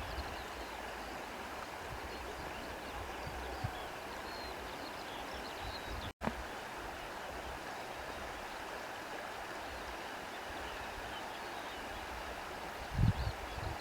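Steady rushing wind through foliage with faint, scattered birdsong chirps. The sound drops out for a split second about six seconds in, and a brief low thump comes near the end.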